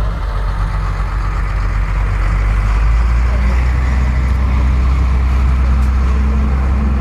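A road vehicle's engine running steadily under a heavy low rumble of wind and road noise while on the move, getting slightly louder about two to three seconds in.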